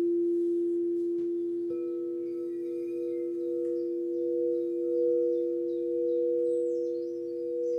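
Singing bowls ringing in a steady, sustained hum of several held tones. A second, higher bowl is struck about a second and a half in and rings on above the others. Faint high chirps sound above them.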